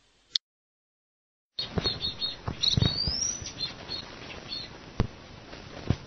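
Small pet bird chirping in short high notes, with one rising whistle, over scattered taps and handling knocks. It starts after a second and a half of silence.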